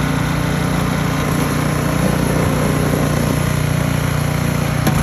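An engine running steadily with a constant low hum, and a faint click near the end.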